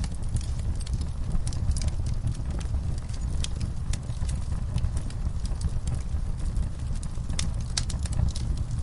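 Wood fire burning in a fireplace: a steady low rumble of the flames with irregular sharp crackles and pops, several coming in quick clusters about a second and a half in and again near the end.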